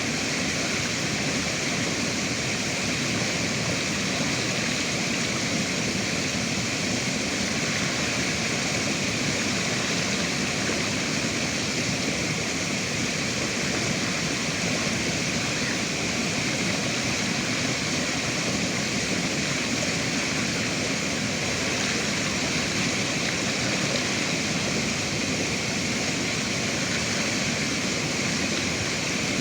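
Rushing river water, a steady even flow with no breaks.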